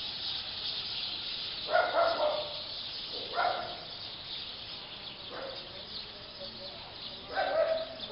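Dense, steady chatter of a large roosting flock of black birds. A dog barks four times over it, each bark short and louder than the flock.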